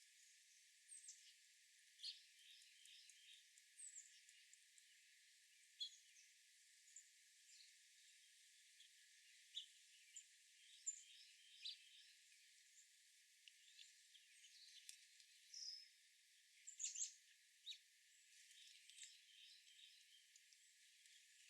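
Faint birdsong: many short chirps and quick down-slurred calls from small birds, coming irregularly over a soft outdoor hiss.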